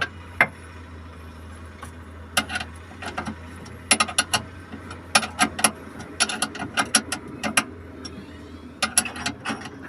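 Sharp metallic clicks and clinks of hand tools being worked, coming in quick irregular clusters, over a steady low hum.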